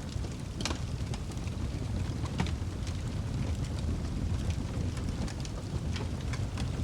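Wood fire burning in a fireplace: a steady low rumble with frequent sharp crackles and pops from the burning logs, two louder pops at about two-thirds of a second and two and a half seconds in.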